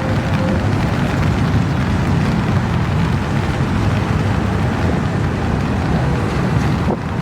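Long, slow intermodal freight train rolling past, a steady loud rumble of wheels on rail, with wind buffeting the microphone.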